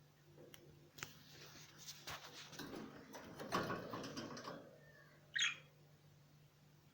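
Small birds scuffling and rustling with light clicks, then a single short, sharp chirp that falls in pitch about five seconds in.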